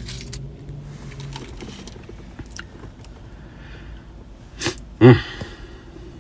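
A person chewing a mouthful of fried cheese stick with small wet mouth clicks, and one brief loud vocal sound about five seconds in.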